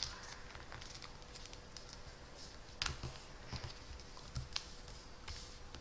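Sheet of A4 paper being folded in half and creased by hand: soft rustling and light crackles, with sharper paper snaps about three seconds in and again about four and a half seconds in.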